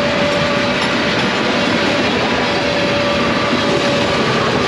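Freight train of tank cars passing at speed, the wheels rolling steadily on the rails, with a thin tone that comes and goes over the rolling noise.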